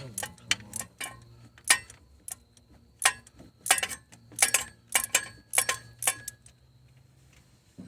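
Socket ratchet clicking as a bolt is worked loose, with sharp metallic clicks coming in short irregular strokes for about six seconds and then stopping.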